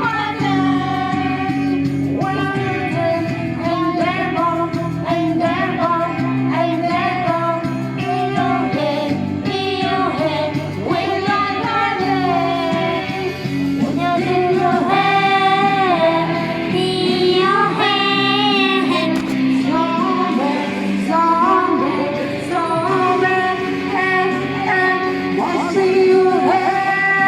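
A female voice singing over an instrumental accompaniment.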